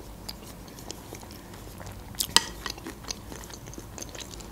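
Close-miked chewing of broccoli cream soup with croutons: soft wet mouth sounds and scattered small clicks, with a brief cluster of sharper clicks a little over two seconds in. A metal spoon touches the soup bowl as the next spoonful is scooped.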